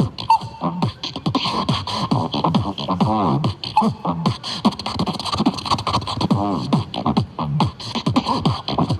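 Solo beatboxing: rapid mouth-made drum hits with sliding, pitched vocal bass and melody lines woven between them.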